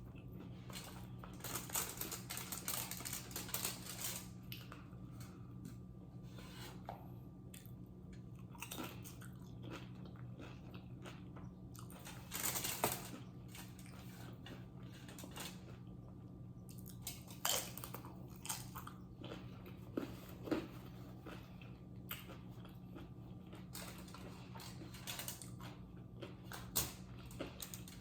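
A person chewing and biting food close to the microphone, with irregular wet mouth sounds and a few sharper crunchy bites.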